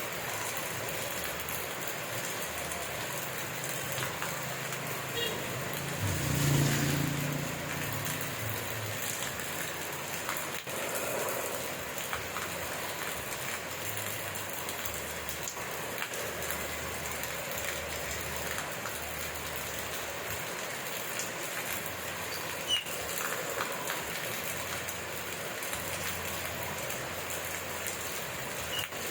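Steady rain falling, an even hiss of drops throughout. About six seconds in, a brief low rumble swells over it and fades within a second or two.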